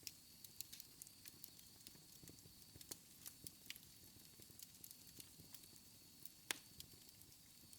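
Wood fire in a fireplace crackling faintly: scattered, irregular snaps and pops over a low steady rumble, with one sharper pop about six and a half seconds in.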